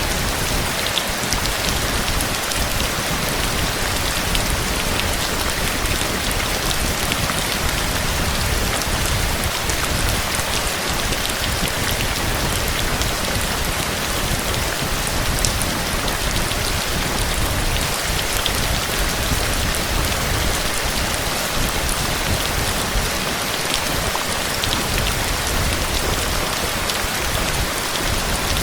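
Heavy rain falling steadily: a dense, even hiss of downpour with fine patter of drops, no single event standing out.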